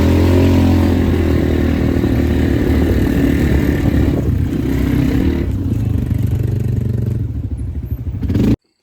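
ATV engine running as the quad is ridden along, a steady drone with some clatter, fading a little before it cuts off suddenly near the end.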